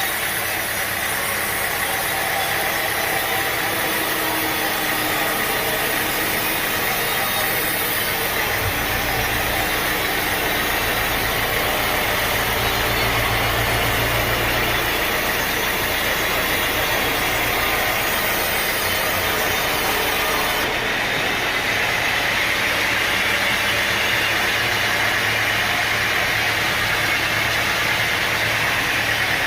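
Engine-driven sawmill machinery running steadily, a loud continuous mechanical drone whose tone shifts slightly about two-thirds of the way through.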